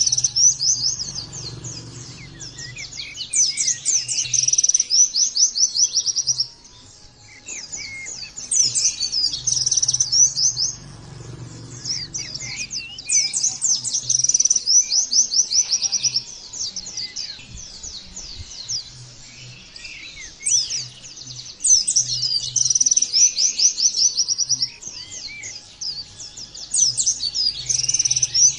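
White-eye (pleci) singing: bouts of rapid, high twittering song a few seconds long, separated by short pauses.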